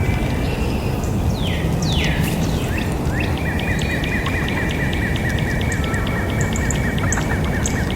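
Birds calling: a few downward-sliding calls, then from about three seconds in a fast, even run of short repeated notes, over steady low background noise.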